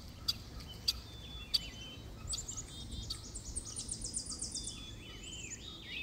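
Wild birds chirping and singing, with short chirps and trills and a rapid run of repeated high notes a little past the middle. A few short sharp clicks come in the first second and a half.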